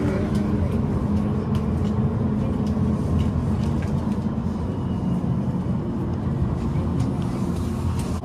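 Tram running along its track, a steady low rumble from the wheels and drive with faint steady tones and occasional light clicks, heard from on board.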